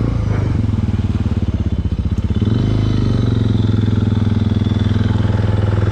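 Adventure motorcycle engine running steadily at low revs, a little louder about two and a half seconds in.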